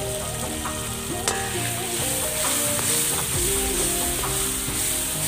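Tomato and onion masala sizzling in a large kadai while a long metal ladle stirs it, with a sharp click about a second in. Background music runs underneath.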